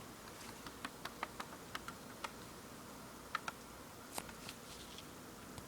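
Faint, irregular light clicks and taps, about a dozen scattered through, from a cockatiel's beak and feet on a hard surface.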